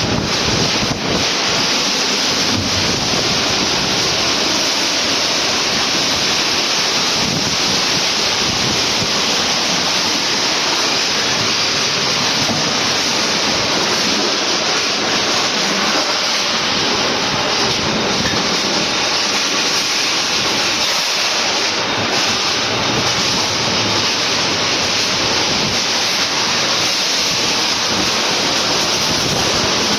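Storm wind blowing hard and without a break, rushing and buffeting the microphone.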